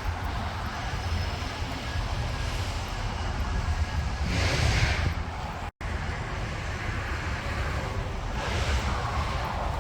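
Steady low outdoor rumble with a hiss that swells twice for about a second, the kind of noise traffic or wind makes. The sound drops out for an instant about halfway through, at a cut.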